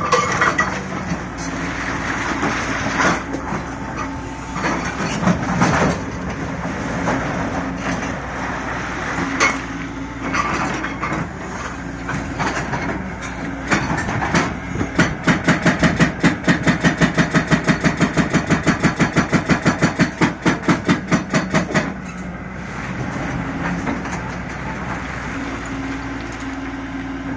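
Liugong 921DI excavator's diesel engine running under load in a well pit, with scattered knocks of rock being worked. For about six seconds past the middle, a hydraulic rock breaker hammers in a rapid, even run of loud blows, then stops.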